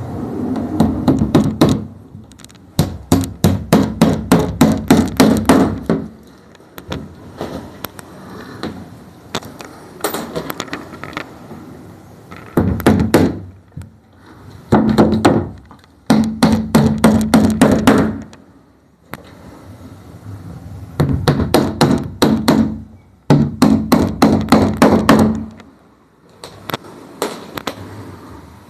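Hammer driving large nails into peroba wood boat frames, in quick runs of strikes, several a second, with short pauses between the runs.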